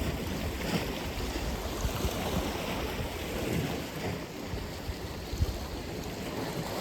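Atlantic Ocean surf: waves breaking and washing on the shore in a steady rush, with wind rumbling on the microphone.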